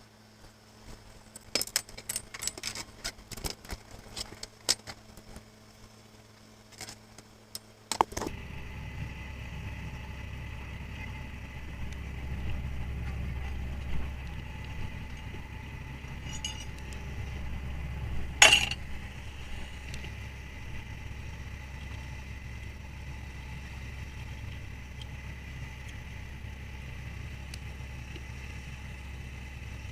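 Scattered sharp clicks and clinks of gear being handled, then from about eight seconds in the fishing boat's machinery runs with a steady low drone and a faint steady whine, with one loud knock about halfway through.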